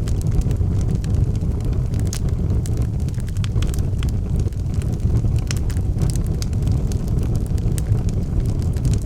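Logs burning in a fireplace: a steady low rumble of flames with irregular sharp crackles and pops from the burning wood.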